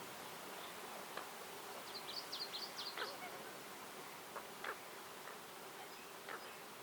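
Outdoor forest ambience: a steady faint hiss with an insect-like buzz, and a quick cluster of short high bird chirps about two to three seconds in, with a few single chirps or ticks scattered after.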